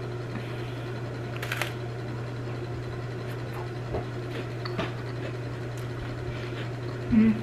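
A crunchy bite into a graham cracker sandwich about a second and a half in, followed by quiet chewing over a steady low hum, with a short closed-mouth "mm" near the end.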